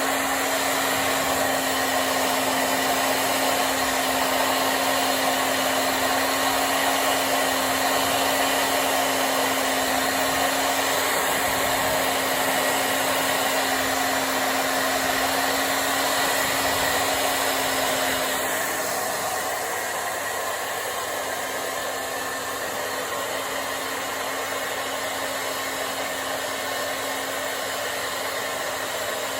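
Hair dryer blowing steadily, with a low steady hum under the rush of air. A little past halfway it becomes slightly quieter and softer as the hum fades out.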